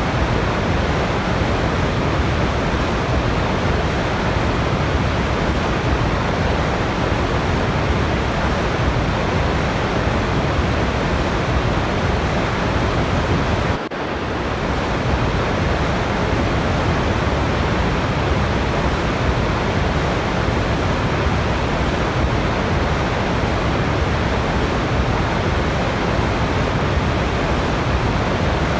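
Waterfall's falling water rushing in a steady, even hiss, with a brief dip in level about halfway through.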